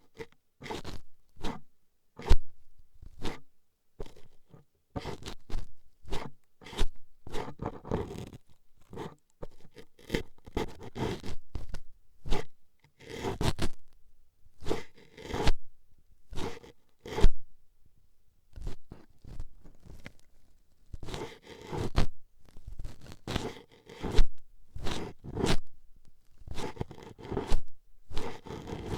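A toothpick poking and scraping in the microphone's ear, close up. It comes as irregular short scratchy strokes separated by brief pauses.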